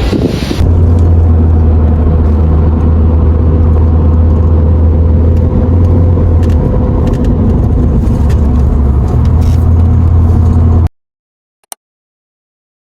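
Steady, loud, low engine drone of a vehicle heard from inside it, holding one even pitch. It cuts off suddenly about eleven seconds in, followed by silence with a couple of faint clicks.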